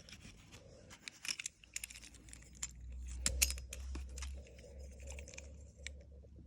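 Small diecast metal toy cars being handled, clicking and clinking against each other and the case in quick irregular runs. A low hum sits underneath from about halfway.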